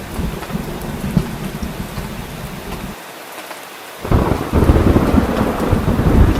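Steady heavy rain with low rumbling thunder. The rumble drops away for about a second near the middle, then a louder roll of thunder swells in about four seconds in.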